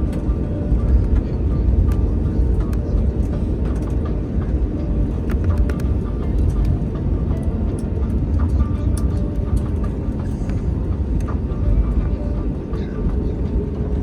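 Cabin noise of an Airbus A321 rolling after landing: a steady low rumble with scattered light clicks and rattles.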